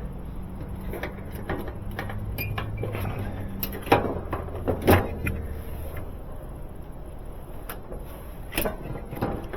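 GE washing machine parts being handled and fitted back together: a few sharp knocks and clicks, the loudest two about four and five seconds in and another near the end. A steady low hum runs underneath and stops about halfway through.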